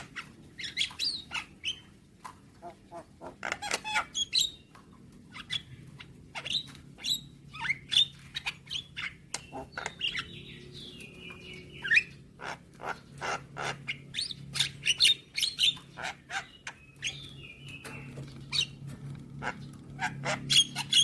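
Javan myna calling: clusters of short, sharp clicking notes, broken by a few squeaky, warbled whistle phrases, with a steady low hum underneath.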